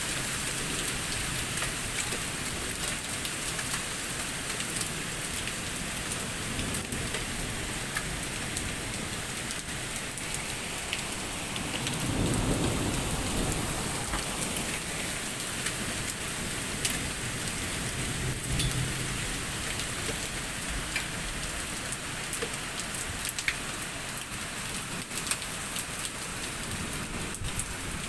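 Heavy rain falling steadily, with scattered sharp ticks of drops striking hard surfaces, and a low rumble of thunder swelling about twelve seconds in.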